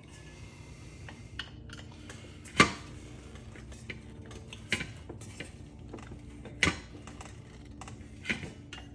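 Scattered clinks and knocks of metal parts and hand tools being handled while a ceiling fan is taken apart, the sharpest knock about two and a half seconds in.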